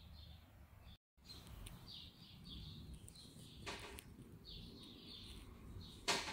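Birds chirping in quick repeated short notes, with a sharp knock about halfway through and a louder one near the end. The sound cuts out completely for a moment about a second in.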